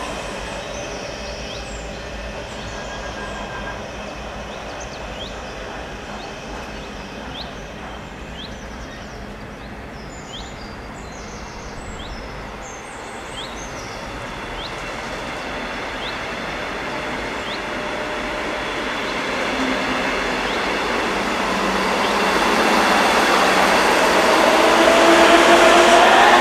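Double-deck regional train pulled by a red electric locomotive at its rear, rolling out along the platform. A steady rumble grows louder over the second half, with even hum tones from the locomotive's traction gear as it draws level.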